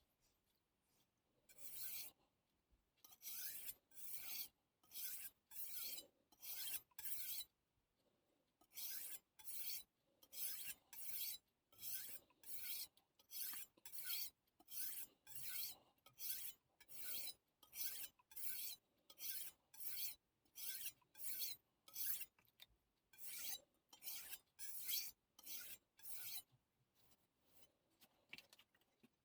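Steel knife blade stroked back and forth on a wet Missarka combination whetstone: an even rhythm of hissing, scraping strokes, about one every three-quarters of a second, with a short pause about a third of the way in and lighter strokes near the end.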